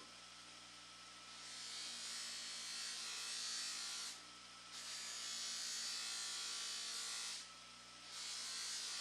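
Hissing spray in three long bursts of a few seconds each, with short pauses between.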